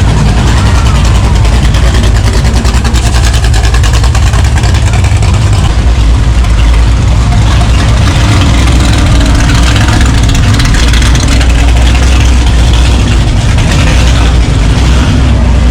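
Car engine running close by with a loud, steady low rumble.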